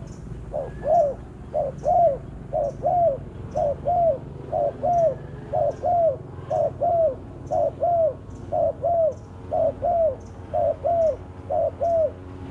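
Spotted dove (terkukur) cooing: a two-note coo repeated about once a second, about eleven times.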